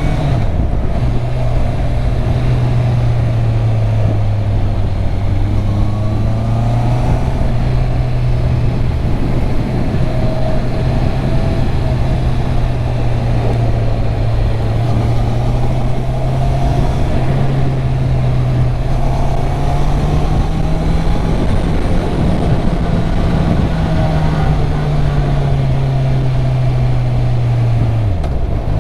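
Honda CB650R's inline-four engine running under way, its note holding fairly steady, rising somewhat past the middle and dropping quickly near the end as the revs fall. A steady rush of wind noise lies under it.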